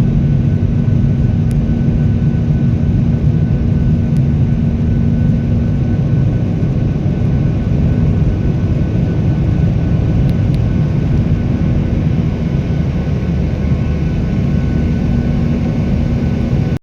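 Jet airliner after takeoff, heard as steady engine and airflow noise inside the cabin: a loud, even rumble with a constant low hum.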